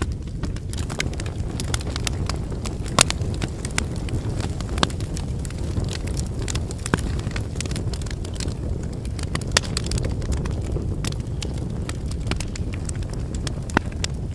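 Wood campfire burning: a steady low rumble of flames under frequent sharp crackles and pops from the firewood, with a few louder pops standing out.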